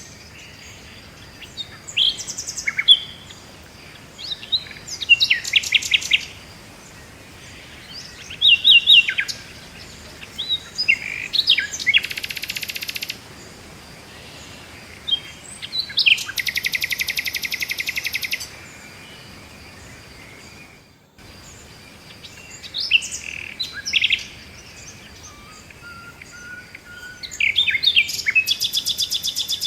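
Several songbirds singing and chirping, with short calls and three long rapid trills: one about twelve seconds in, a longer one around sixteen to eighteen seconds, and one near the end. A faint steady hiss underlies the birdsong.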